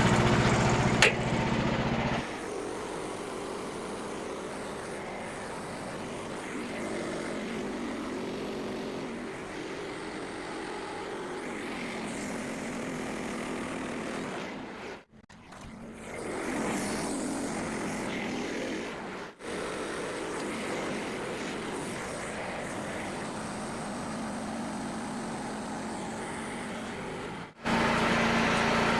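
Small gas engine of a Frontier OS27 portable bandsaw sawmill running. It is loud and steady for about the first two seconds, then quieter and more muffled. The sound breaks off briefly about halfway through and again a little later, and near the end the loud, steady engine sound comes back.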